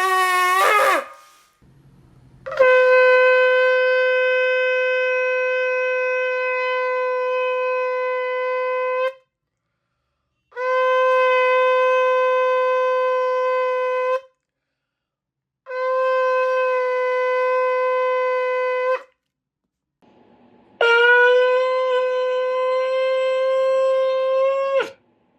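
Shofar (ram's horn) blowing. A blast ends in the first second with an upward slide in pitch. Then come four long, steady blasts of about three to six seconds each, on one pitch, with short pauses between them.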